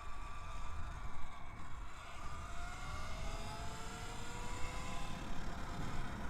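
E-Ride Pro SS 3.0 electric bike's motor whining, its pitch rising gently through the middle as the bike speeds up, over a low wind rumble on the microphone.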